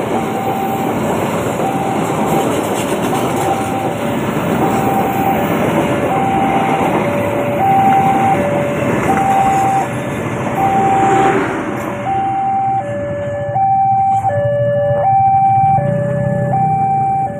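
Railway level-crossing warning alarm sounding a steady alternating high-low two-tone signal, over the noise of a passing train that dies away about twelve seconds in.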